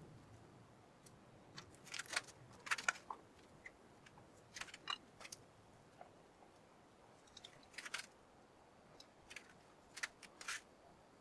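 Light, irregular clicks and taps of small metal engine parts being handled during engine assembly, a dozen or so short sharp strokes spread over several seconds.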